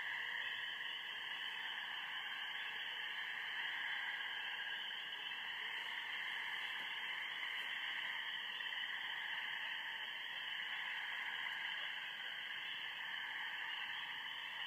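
Steady chorus of many frogs, spring peepers among them, calling together from a pond at night, dense and unbroken.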